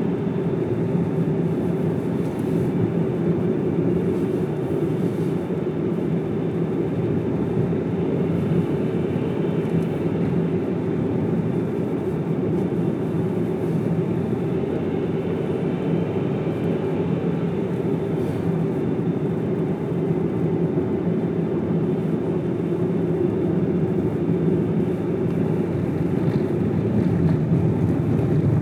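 Car driving steadily on a mountain road: a continuous low hum of engine and tyre noise, heard from the car's own onboard camera.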